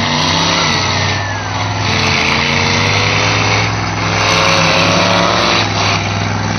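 Monster truck engine running at high throttle after a countdown start, its pitch climbing and falling as the driver works the throttle.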